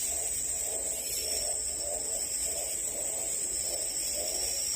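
Forest insects drone steadily at a high pitch. Fainter, lower wavering calls repeat underneath.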